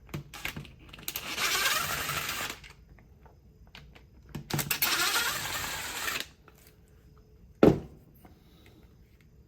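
A power screwdriver running in two bursts of about a second and a half each, backing out two housing screws of a hammer drill, followed a couple of seconds later by a single sharp click.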